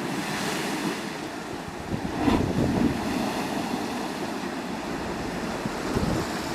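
Wind buffeting the microphone: an uneven, gusting rumble, with a single knock about two seconds in.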